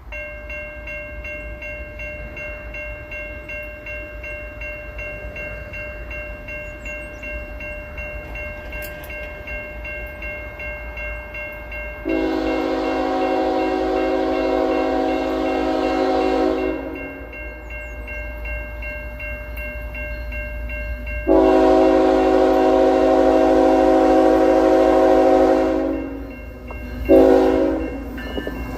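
Air horn of a CN freight locomotive sounding the grade-crossing pattern as the train approaches: two long blasts, a short one, and the final long blast starting at the end. A fainter steady ringing tone sits underneath throughout.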